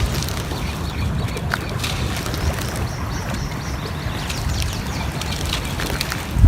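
Layered nature ambience: scattered short bird calls and small crackles over a steady low rumble, with a brief loud bump at the very end.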